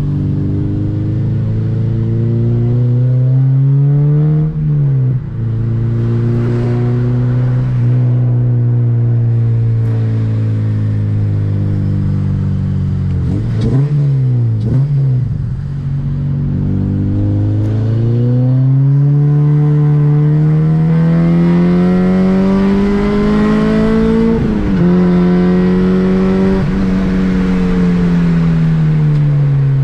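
2007 Honda Civic Si's 2.0-litre four-cylinder engine pulling hard through the gears: its pitch climbs steadily in each gear and drops sharply at each upshift, about four times, with quick revs of the throttle midway.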